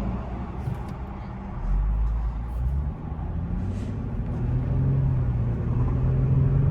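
Infiniti car's engine and road noise heard from inside the cabin while driving. A low rumble about two seconds in, then the engine note climbs slightly and grows louder as the car pulls.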